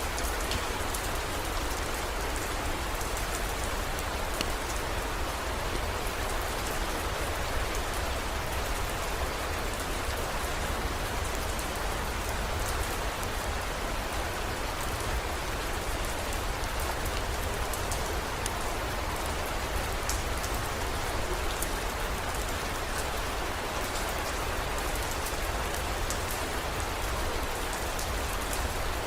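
Heavy rain falling steadily, with scattered sharp drop ticks and a steady low rumble underneath.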